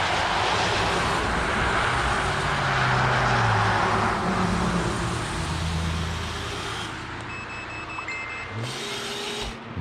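Kyosho Blizzard 2.0 RC tracked snow vehicle on a speed run with its twin brushless electric motors: motor whine shifting in pitch over the hiss of the tracks in snow, louder for about six seconds and then easing off.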